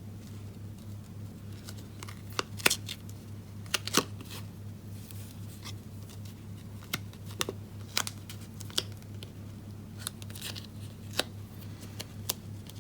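Paper and cardstock being handled on a crafting desk: scattered light taps, clicks and rustles at irregular intervals, over a steady low hum.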